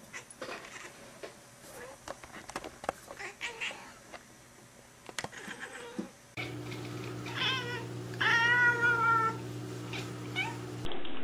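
Domestic cat meowing twice, a short call and then a longer one of about a second that falls slightly in pitch. Before the calls there are faint, scattered soft clicks.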